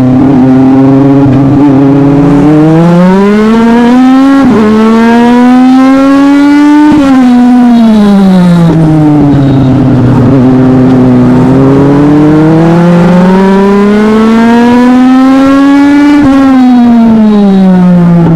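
Legend race car's Yamaha motorcycle four-cylinder engine at racing speed. Its revs climb, dip briefly about four and a half seconds in as it shifts up, climb again, then fall away; they rise once more and fall again near the end, the pattern of lapping a track and lifting for the turns.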